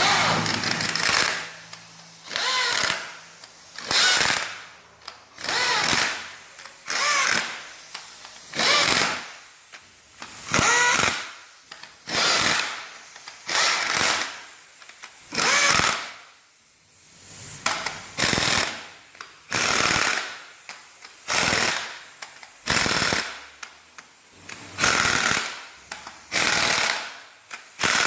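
Impact wrench hammering in repeated short bursts, roughly one a second, each with a wavering whine, as fasteners are worked on a BMW N47 engine during a timing chain job.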